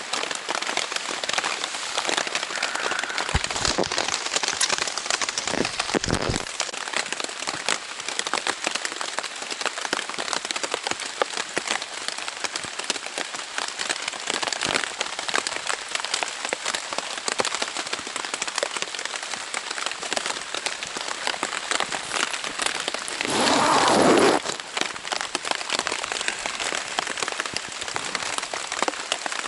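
Heavy rain pattering on a Zpacks Plexamid tent's Dyneema fabric, a dense, steady drumming of drops. There are two brief low thumps a few seconds in, and a louder swell of about a second and a half near the end.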